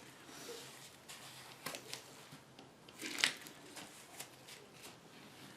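Light handling noise: scattered small clicks and rustles, with one louder, brief scrape about three seconds in.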